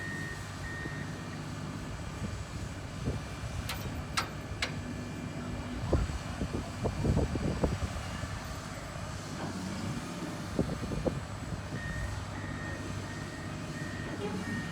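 Heavy vehicle's engine running, with its reversing alarm beeping steadily at the start and again near the end. Several clanks and knocks in the middle.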